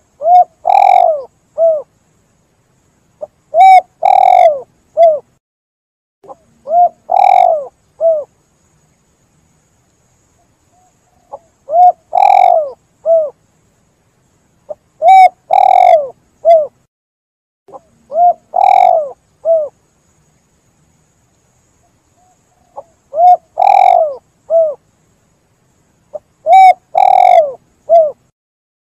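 Spotted dove (tekukur) cooing: repeated coo phrases, each a short note, a longer note and a short note, given in runs of three with pauses of about three seconds between runs.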